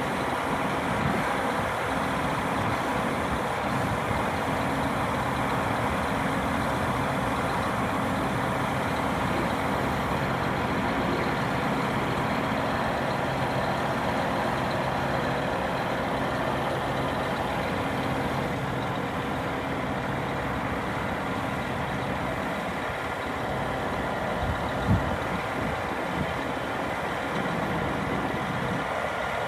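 Scania R480 crane truck's diesel engine running steadily, with one short sharp knock near the end.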